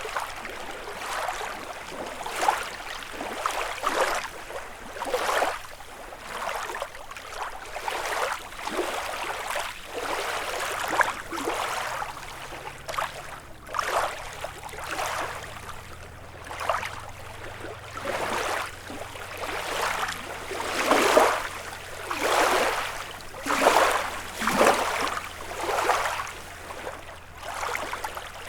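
Small lake waves lapping and splashing against the shore, a splash about every second, louder for a while after about twenty seconds.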